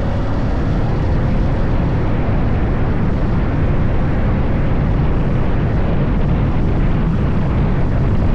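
BMW F 900 GS Adventure motorcycle on the move: a steady, loud low rumble of engine and wind.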